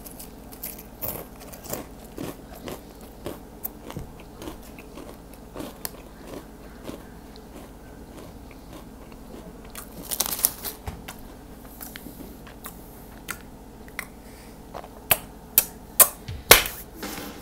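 Goldfish crackers being crunched and chewed in a run of small crisp bites, with a few louder crunches near the end.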